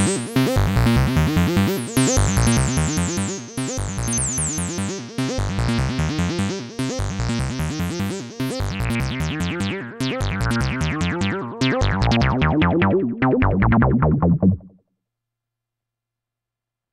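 Moog Subsequent 37 analog synthesizer playing a sequenced acid bassline: a fast run of short bass notes, each with a resonant filter that opens bright and falls away. The pattern cuts off about fifteen seconds in, and silence follows.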